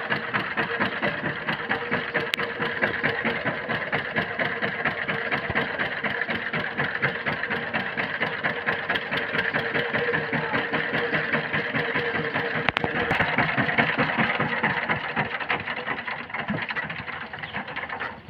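A power tiller's single-cylinder diesel engine running with a rapid, even firing beat, a little louder past the middle and fading near the end.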